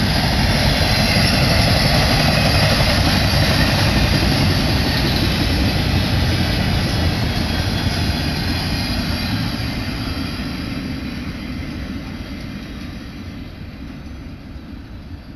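Freight train of empty intermodal flatcars rolling past, a steady loud rumble of steel wheels on rail that fades away over the last several seconds as the end of the train goes by.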